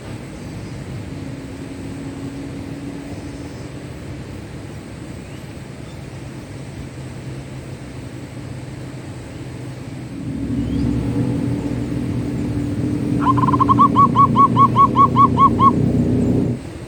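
Zebra dove giving its rapid, pulsed coo: about a dozen short notes at roughly five a second, over a low engine-like hum that swells about two-thirds of the way in and cuts off suddenly near the end.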